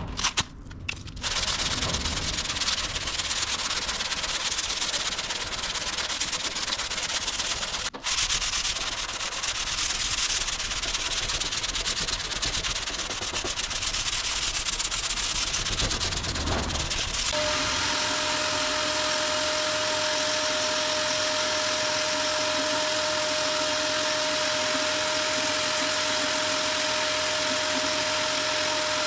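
Sandpaper working cured body filler on a car's front wing: a continuous rasping hiss, broken briefly near the start and again at about 8 seconds. From about 17 seconds a steady high whine joins it and holds.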